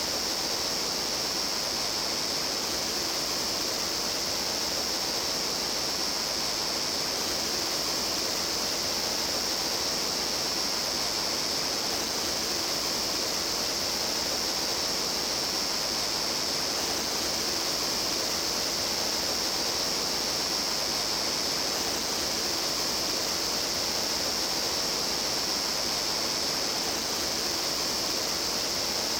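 Steady rush and babble of a mountain stream flowing over rocks, an even noise without breaks, with a continuous high-pitched hiss above it.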